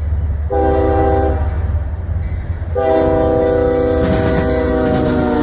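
CSX diesel locomotive's air horn sounding two blasts, a short one about half a second in and a longer one about three seconds in, over the steady rumble of the passing train.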